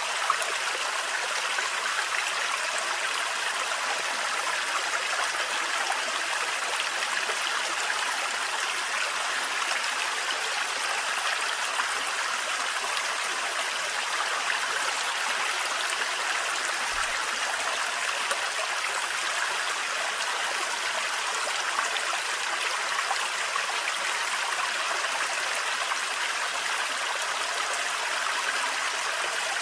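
Water of a small, thin waterfall in a forest stream, falling and running steadily without a break.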